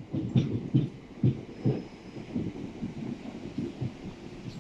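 Southern Class 377 electric multiple unit pulling slowly into the platform and sliding past, with a run of low, irregular thuds and a faint high tone about halfway through.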